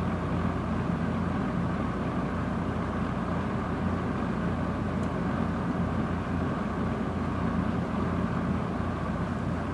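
Lakewood-made Kmart K-223 box fan running steadily: an even rush of air from the blades over a low motor hum.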